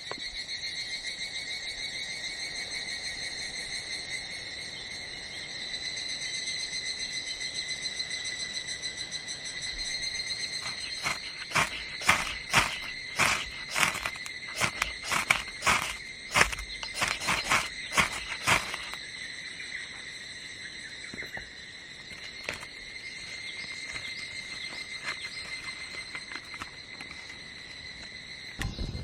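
Higurashi (evening cicada) calling: a run of loud pulses, about two a second, lasting some seven seconds in the middle. Under it runs a steady high-pitched insect drone.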